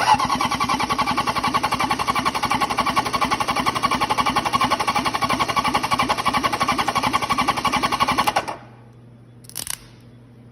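A 1974 Honda CB750's air-cooled inline four-cylinder engine being spun over on its electric starter for a compression check, with a steady whine and an even, rapid pulsing from the compression strokes. It stops suddenly about eight and a half seconds in, and a brief short noise follows about a second later.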